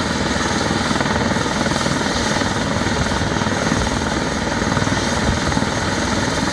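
Helicopter running close by, its rotor a steady loud whirring with fast rapid pulsing at the low end, mixed with turbine noise.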